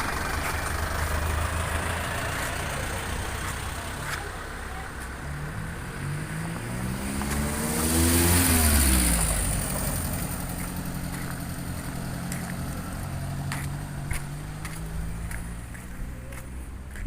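Motor vehicle engine over steady road rumble, rising in pitch over a few seconds and loudest about halfway through, then falling away.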